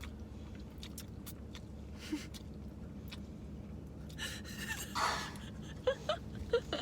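Quiet eating: light mouth and food clicks over a low steady hum, then a breathy gasp about four to five seconds in.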